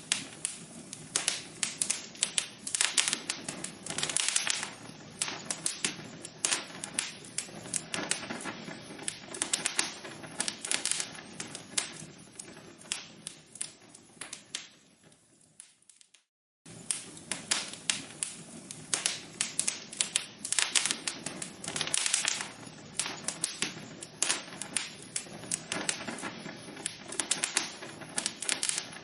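Burning logs in a fireplace crackling and popping: a dense run of sharp, irregular snaps over a soft hiss. About halfway through it fades, cuts out for under a second, then starts again at full strength.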